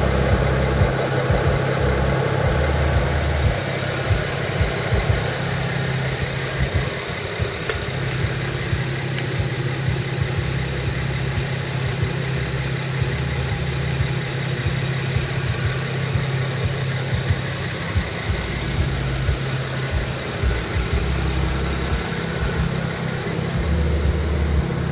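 BMW 335i's turbocharged 3.0-litre inline-six idling steadily through its stock exhaust.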